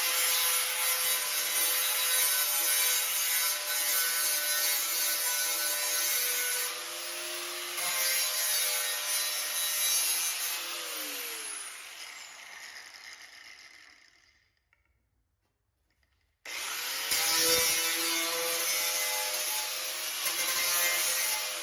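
Handheld power cutting tool cutting through the rusted sheet-metal quarter panel, running steadily with a high whine and a gritty hiss. About halfway through it is released and winds down to a stop. A few seconds later it spins back up and cuts again, and near the end it starts to wind down once more.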